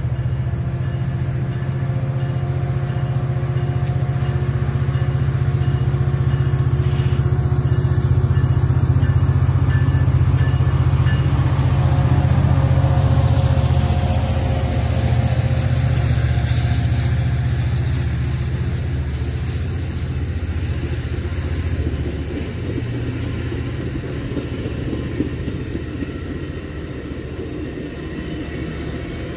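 Metra diesel commuter train passing close by: the locomotive's engine drone builds as it arrives and is loudest in the middle. It then fades into the rolling wheel and rail noise of the bilevel cars going past.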